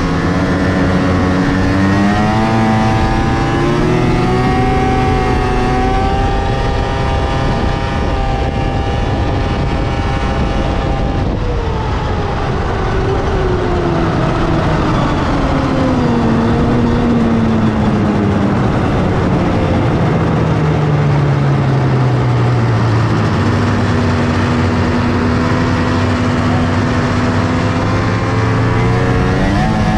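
1997 Polaris XCR 600 snowmobile's three-cylinder two-stroke engine running through its factory triple pipes. It accelerates and holds high revs, then the revs fall away gradually to a steady low speed, and it picks up again at the end.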